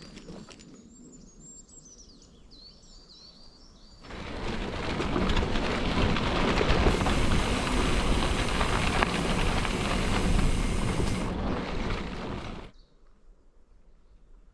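Birds chirping over a quiet outdoor background. About four seconds in, a loud steady rushing noise of the bicycle in motion cuts in, and it cuts off abruptly about four seconds before the end.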